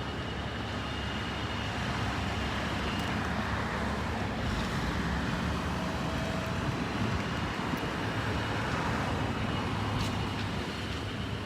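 Road traffic on a busy street: cars and trucks passing, a steady rush that swells and eases as vehicles go by.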